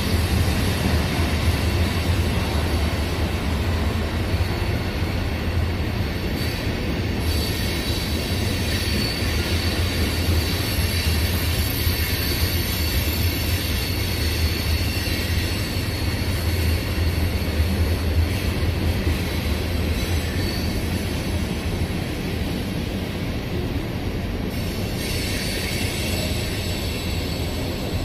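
A CSX freight train rolls past as a steady low rumble of wheels on rail, with a faint thin high wheel squeal over it. It eases slightly near the end.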